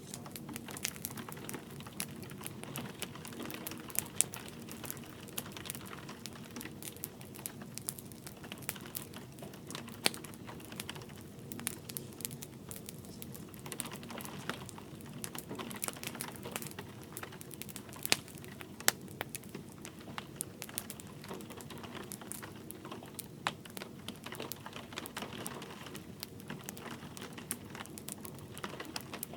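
Wood fire crackling in a fireplace with frequent small sharp pops and a few louder ones, over a steady hiss of gentle rain.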